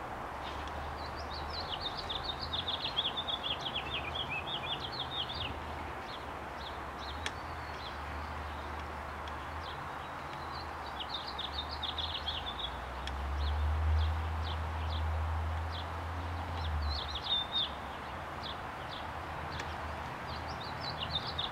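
Songbird chirping in quick trilled phrases that come every few seconds, over a steady low rumble that swells for a few seconds past the middle.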